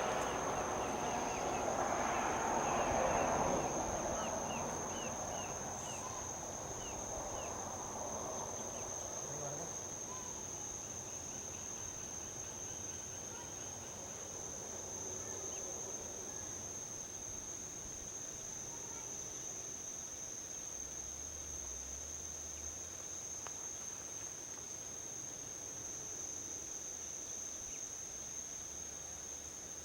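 A steady high-pitched insect trill runs throughout. In the first few seconds a vehicle passes on a highway, its broad tyre-and-engine noise swelling and then fading away, with a few short chirps as it dies out.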